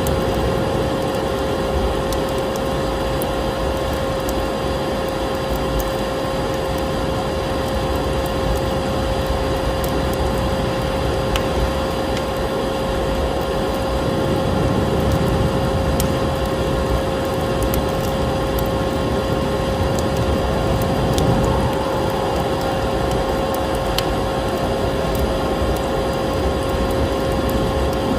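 Electric vacuum cleaner running steadily, its motor giving a constant whine over a rushing hiss, with a wood fire in a fireplace crackling in irregular sharp pops.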